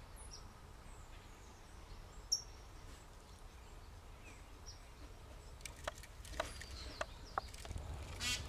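Small birds chirping now and then over a steady low outdoor rumble, with a few sharp clicks in the second half and a quick rattling trill near the end.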